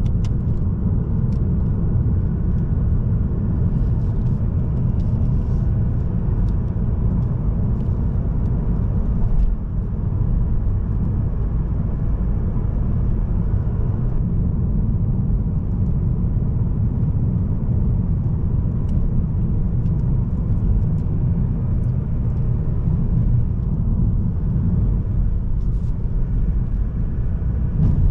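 Steady low rumble of a car driving on the road: tyre and road noise with the Mazda3's 1.8-litre four-cylinder turbodiesel engine running at cruising speed.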